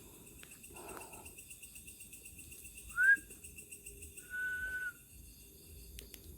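Two short whistles, the first sliding up in pitch about three seconds in, the second held on one pitch for about half a second, over a steady pulsing trill of night insects such as crickets. A soft rustle about a second in.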